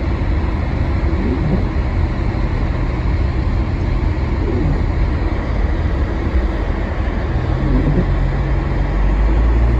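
Steady low rumble of a car driving, heard from inside the cabin, getting a little louder near the end.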